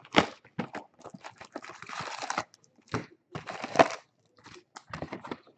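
Packaging of sealed baseball card boxes being handled and torn open: irregular crinkling, rustling and tearing of wrapping in several short bouts.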